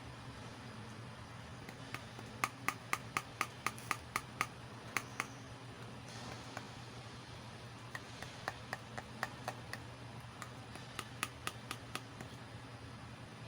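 Small hard plastic toy pieces clicking and tapping in quick runs of sharp, ringing clicks, several a second, with a brief soft rustle between the runs.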